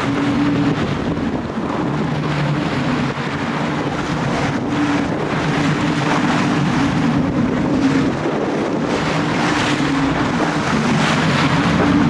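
Fishing boat's engine running with a steady low hum, under wind noise on the microphone and the wash of the sea.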